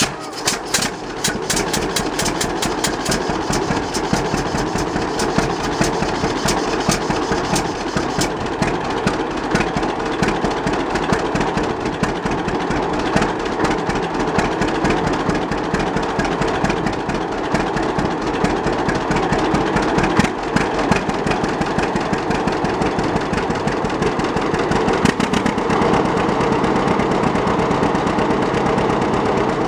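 1939 John Deere D's two-cylinder engine running with a steady, even putt-putt of firing pops, having just been flywheel-started. It runs smoothly after a tune-up: rebuilt magneto, new spark plugs and a rebuilt carburetor.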